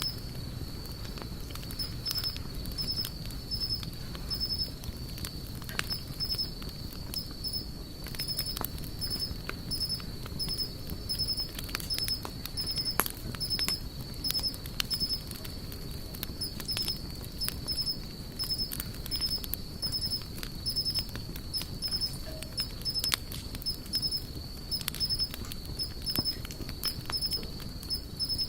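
Wood campfire crackling, with frequent sharp irregular pops over the low noise of the burning fire. Behind it, an insect chirps steadily in an even, repeating rhythm.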